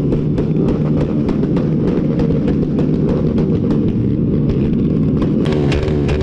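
Motorcycle and car engines in heavy traffic, running and revving, with fast, even ticks over the engine noise. Music starts to come in near the end.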